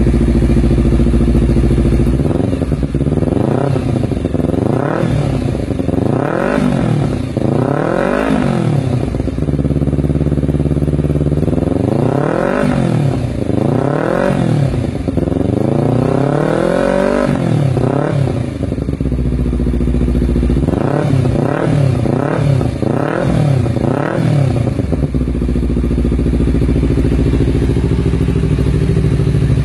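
Honda CBR250RR parallel-twin engine and exhaust idling, then revved in bursts: four short blips, a few longer revs that climb higher, then four quick blips, settling back to a steady idle about 25 seconds in.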